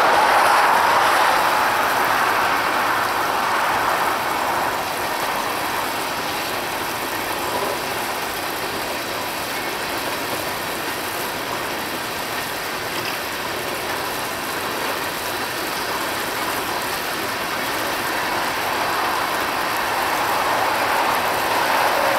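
Coal hopper cars of a freight train rolling past: a steady rush and rattle of steel wheels on the rails, a little louder at the start and again near the end.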